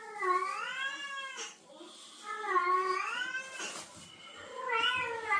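A cat yowling in three long, drawn-out calls, each wavering up and down in pitch: the mating caterwaul of cats in heat.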